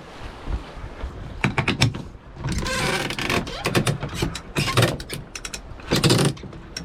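Deck winch on a sailing yacht being worked in several short bursts, with ratcheting clicks and rougher grinding stretches.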